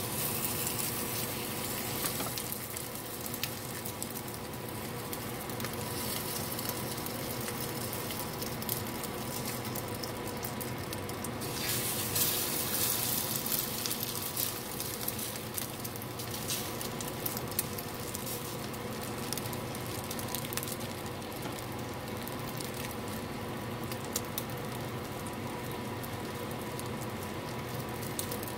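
Egg-dipped sweet rolls sizzling in a hot nonstick frying pan as French toast, with sharp spattering crackles throughout. The sizzle flares up louder about twelve seconds in, as a second egg-soaked roll is laid in the pan.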